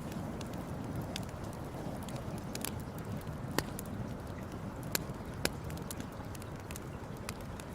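Campfire crackling: a steady low rush with scattered small clicks and a few sharp pops in the second half.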